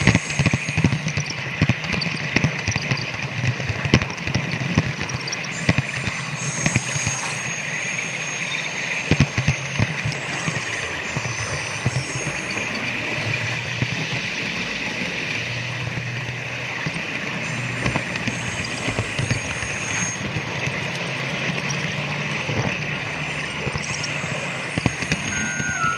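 Model train running along the track: irregular clicks of the wheels over rail joints over a steady motor hum and hiss, the hum shifting in pitch a few times.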